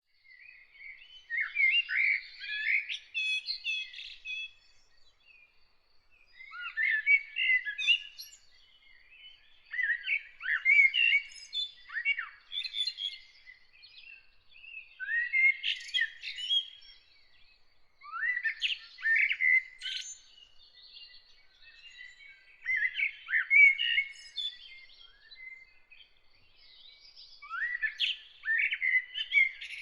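Birdsong: a songbird sings warbled, chirping song phrases about two to three seconds long, repeated every few seconds with short pauses between. A faint, thin, steady high note continues in the background.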